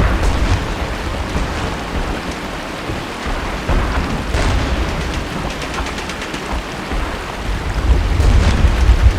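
Steady heavy rain with a deep low rumble that is strongest at the start and swells again near the end. A few sharp cracks stand out over the rain.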